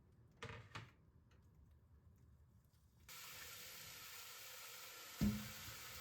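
Two quick clacks, then a steady frying sizzle starts abruptly about three seconds in, with a single knock on the pan near the end.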